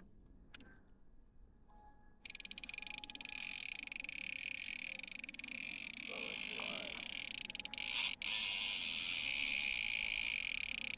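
A fishing reel's drag clicking fast enough to make a steady buzz as a hooked white sturgeon pulls line off. It starts abruptly about two seconds in and breaks briefly near the end.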